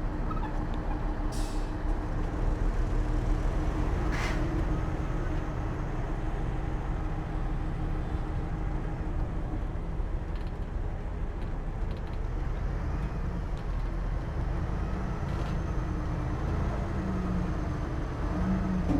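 Heavy diesel earthmoving machinery running steadily with a deep drone, with two short hisses about one and four seconds in.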